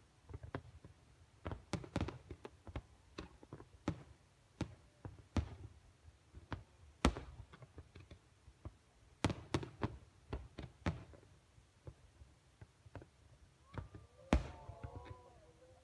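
Fireworks going off: an irregular run of sharp bangs and pops, some louder and some faint, a few a second. Near the end a few wavering tones sound among the bangs.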